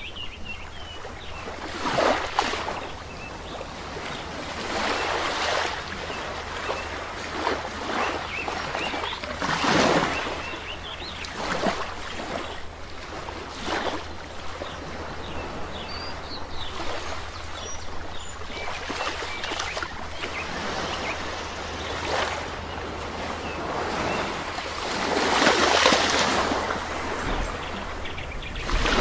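Sea waves washing onto a shore, swelling and breaking in repeated surges every few seconds, the biggest near the end. A few faint bird chirps sound over them.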